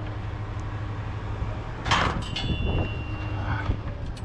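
Steady low hum of a running vehicle engine, with a loud clatter of scrap metal being handled about two seconds in that rings briefly, then a few lighter knocks.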